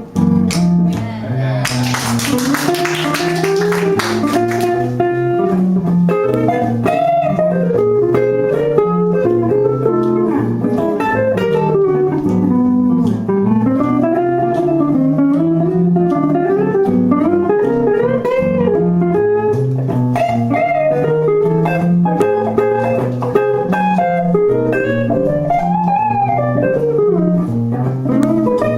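Live music: a guitar playing a bluesy song, with a melody line that glides up and down over it and a brief hissing burst about two seconds in.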